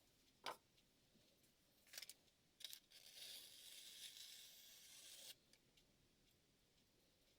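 Damascus chef knife blade on steel-and-stone work: a few light clicks, then one steady scraping hiss lasting about two and a half seconds as the blade slides.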